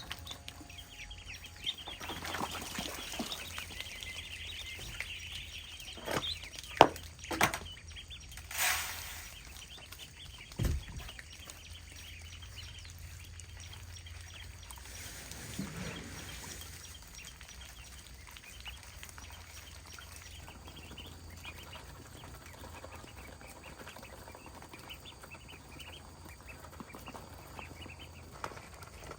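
Chickens clucking and chirping steadily, with a few sharp knocks and a short rush of noise in the first third and a dull thump after them.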